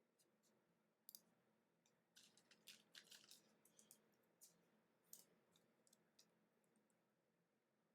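Near silence with faint clicks and scrapes of trading cards being handled, a quick cluster about 1 s in and a busier run of them around 2 to 3.5 s in.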